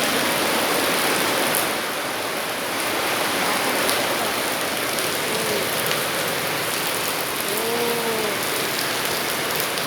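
Steady rain falling, an even hiss throughout, with a couple of faint, brief rising-and-falling tones in the second half.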